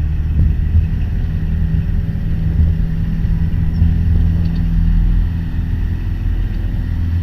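Piper Warrior PA-28's four-cylinder Lycoming engine running at full power for a touch-and-go takeoff, a steady low drone heard from inside the cockpit.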